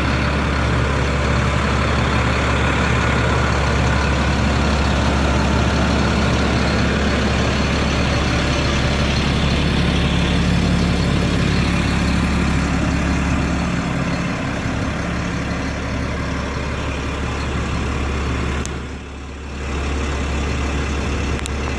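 Caterpillar C7 inline-six diesel of a Ford F650 truck idling steadily, with a brief dip in level about nineteen seconds in.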